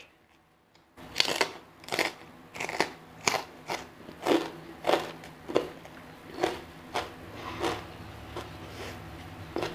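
Close-miked crunching as a mouthful of crisp food is chewed, starting about a second in at roughly one to two crunches a second and growing softer toward the end.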